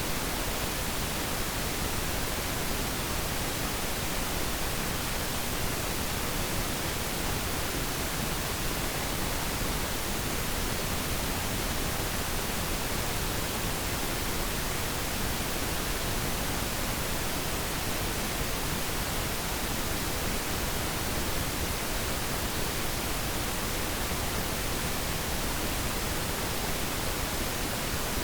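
Steady synthetic pink noise: an even, unchanging hiss spread across all pitches, softer in the highs than white noise.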